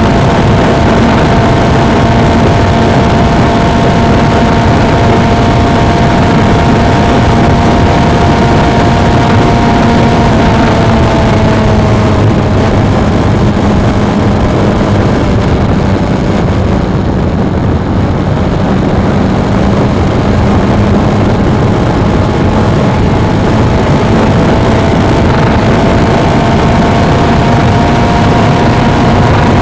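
Suzuki V-Strom 250 (DL250) parallel-twin engine running on the move under a heavy rush of wind and road noise. The engine note drops about a third of the way in, stays lower through the middle, and rises again near the end.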